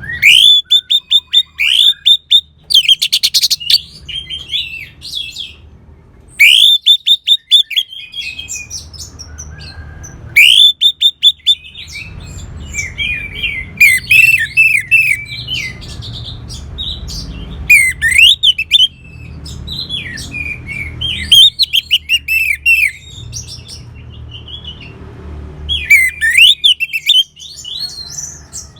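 Orange-headed thrush singing loud, varied phrases of quick whistled notes and trills, each phrase lasting a second or two with short pauses between, over a faint low hum.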